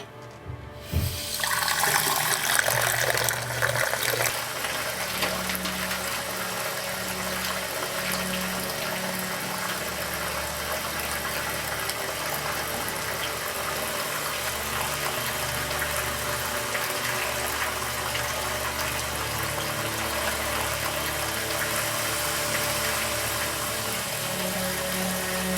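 A loud, steady rush of water starts about a second in, just after a short knock, over music with low sustained tones.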